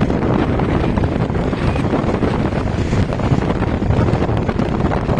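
Steady, loud wind noise buffeting the microphone.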